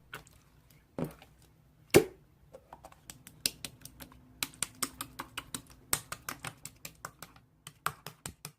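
Irregular small clicks and taps, a few a second, with two louder knocks about one and two seconds in.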